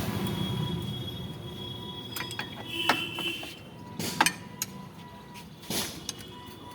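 Scattered metal clinks and knocks of tools and shock absorber parts being handled at a workbench, with two sharp strikes about four seconds in. A passing motor vehicle fades away at the start.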